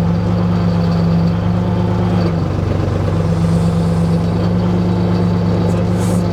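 Engine of a small earth-moving machine running steadily, its note shifting briefly about two and a half seconds in.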